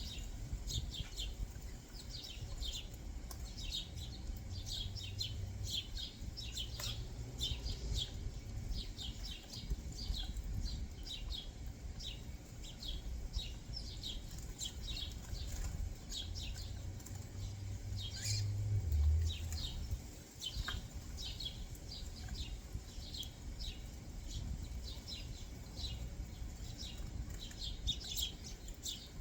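Small backyard songbirds chirping: a steady stream of short, high, downward-slurred chirps, several a second, with a low rumble underneath that swells briefly about eighteen seconds in.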